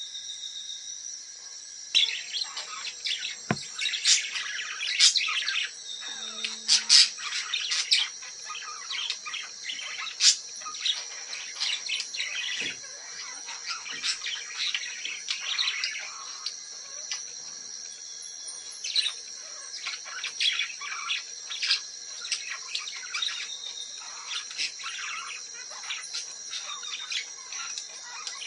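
Parrots calling in dense runs of short, sharp calls starting about two seconds in and thinning toward the end, over a steady high insect drone.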